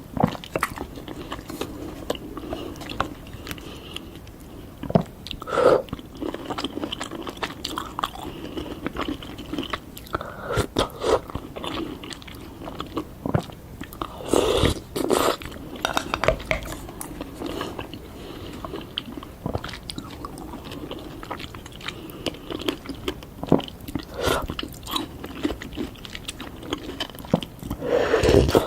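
Close-miked biting and chewing of fruit: a run of irregular crunches, with louder bites about five seconds in, around the middle and near the end.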